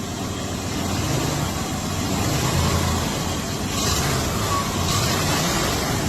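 Motor vehicle engine running steadily with a low rumble, a little louder from about a second in.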